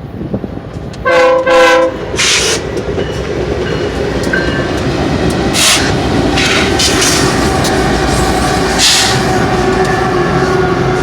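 Diesel freight locomotive horn sounding two short chord blasts about a second in, then the lead BNSF GE ES44DC locomotives passing with steady engine rumble and rail noise.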